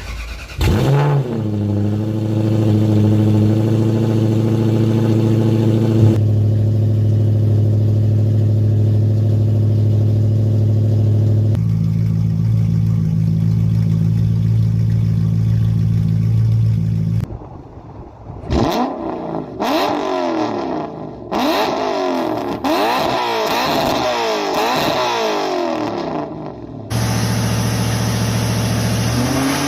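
Toyota UZ-series V8 exhaust, tagged as a 3UZ-FE on 4-2-1 headers: the engine flares briefly, then idles steadily. About two-thirds of the way through it is blipped in a series of quick revs rising and falling, then settles back to idle and starts to rev again at the end.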